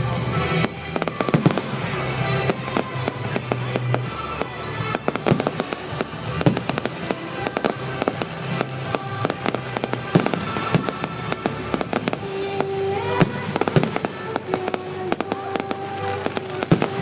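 Aerial fireworks going off in quick, irregular succession, a dense run of bangs and crackles, over music.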